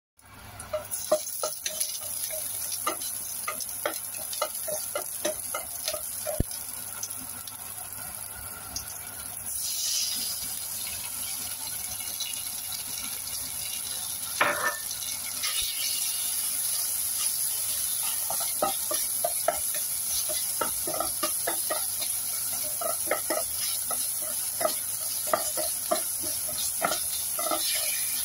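Shallots and then chunks of meat sizzling in hot oil in a non-stick frying pan, with a steady hiss and frequent small crackles of spitting oil. The sizzle surges about ten seconds in as the meat goes in, and in the second half a wooden spatula stirs the pieces around the pan, adding scraping and louder crackling.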